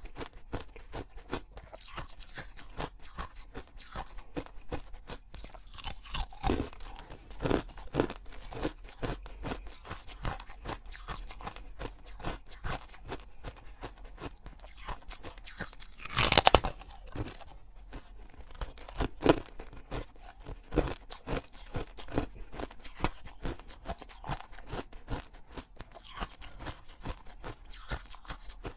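Someone eating golden oval cakes with pink centres: steady crunching and chewing, with many sharp crackling bites and one loud burst of crunching about sixteen seconds in.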